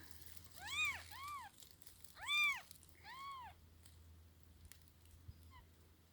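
Unweaned kitten meowing: four high-pitched cries that rise and fall, in two pairs, then a faint short one near the end.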